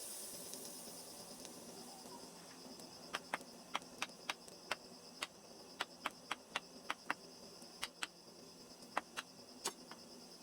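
A string of about eighteen sharp, irregularly spaced clicks, starting about three seconds in and stopping shortly before the end, over a steady high-pitched trill.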